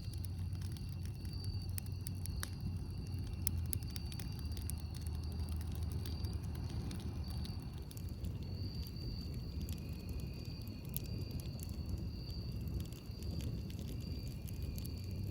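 Campfire crackling, with irregular sharp pops over a low rumble. A thin, high insect trill comes and goes behind it.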